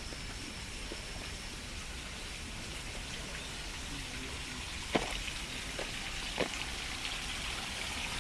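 Steady rushing hiss of a ravine stream's flowing water, growing a little louder near the end, with three sharp clicks about five, six and six and a half seconds in.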